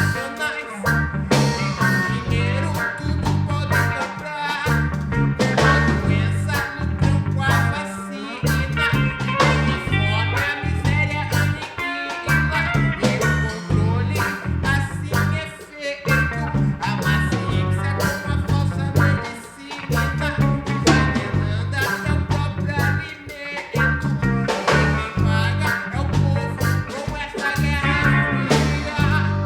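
A live band playing in rehearsal, with guitar over a strong, moving bass line and a steady beat of drums.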